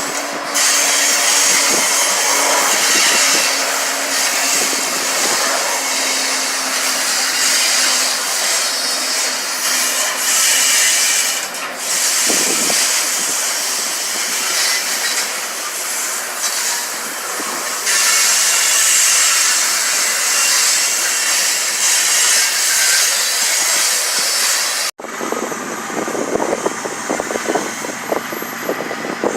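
A freight train passing close by: steel wheels on rail make a steady loud rush and hiss. About 25 seconds in it cuts off abruptly, and a quieter passage follows with irregular clicking of wheels over the rail.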